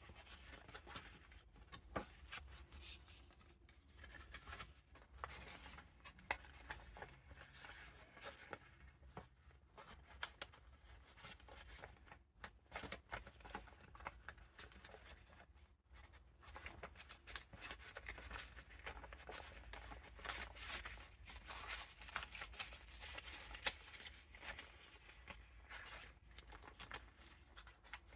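Paper pages of a handmade junk journal being turned and handled, giving faint, irregular rustling and crackling with short lulls now and then.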